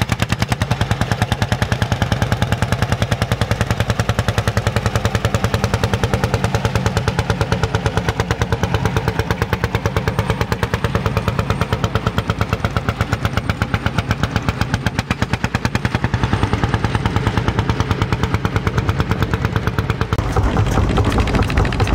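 Vintage tractor engine running with a rapid, even chain of sharp exhaust beats, getting louder near the end.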